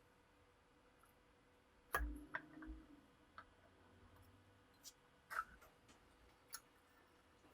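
Sparse sharp clicks and taps of small metal pistol parts being handled, the loudest a knock about two seconds in that rings briefly.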